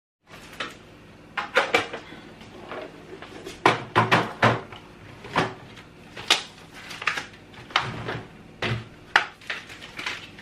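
Plastic containers and food items being handled and set down, a dozen or so sharp knocks and clicks at irregular intervals.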